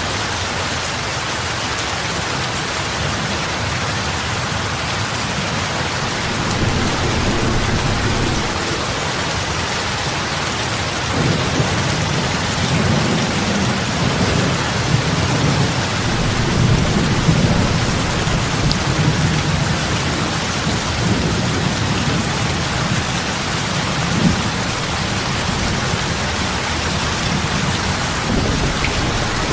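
Steady heavy rain falling on a lake's water surface, big drops splashing. A low rumble swells under it about a quarter of the way in, and more strongly through the middle.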